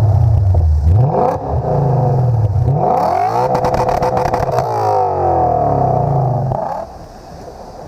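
A car engine being revved hard through its exhaust in repeated blips, the pitch climbing and falling again several times, with a rapid rattle of sharp clicks in the middle. It drops back to a much quieter level near the end.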